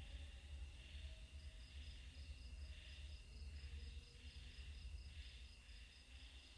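Faint insects chirring: steady high trills with a fast pulsing note above them, over a low rumble.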